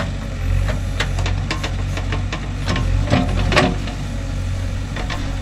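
JCB 3DX backhoe loader's diesel engine running steadily, with a scatter of sharp clanks and knocks that come thickest about three seconds in.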